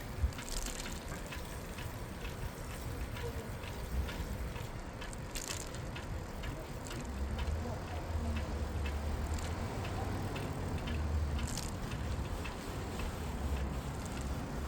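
Bicycle being ridden along a city street, with light clicking and rattling from the bike over a low rumble of wind and tyres. There are two brief hisses, about five and eleven seconds in.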